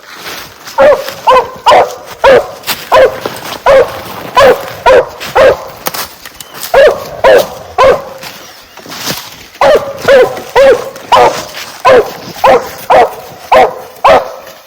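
Treeing walker coonhound barking at a tree: rapid, loud, sharp barks, about two a second, with a short break midway. It is a hound's treed bark, the sign that it is holding a raccoon up the tree.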